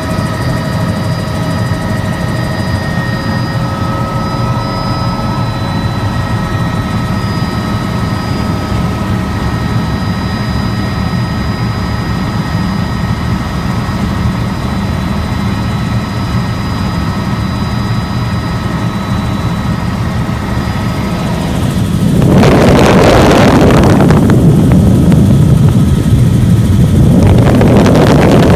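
Helicopter running steadily, a turbine whine over the rhythmic beat of the rotor. About 22 seconds in it turns much louder, with a rushing noise that surges twice.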